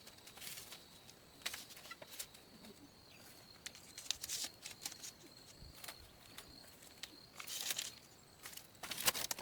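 Irregular rustling and light clicks and knocks, with the densest bursts near the end, over a faint steady high-pitched tone.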